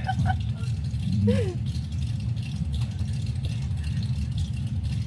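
Car engine idling, a steady low rumble. A brief snatch of a voice about a second in.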